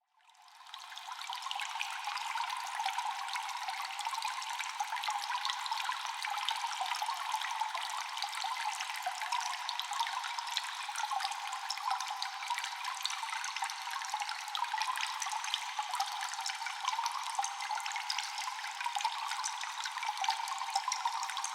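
Cave water ambience: many drops of water dripping and trickling, with echo, in a dense steady patter. It fades in from silence about a second in.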